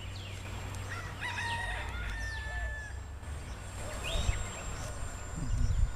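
A bird calling in drawn-out, pitched phrases over a steady low rumble, with a shorter call about four seconds in.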